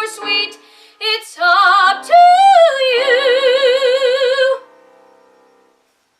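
Female voice singing the closing phrase of a show tune, ending on a long held note with vibrato that stops about four and a half seconds in and dies away.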